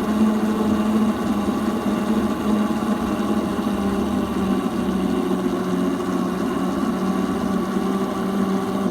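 Small electric motor of a ride-on vehicle humming steadily at a constant pitch while it is being ridden.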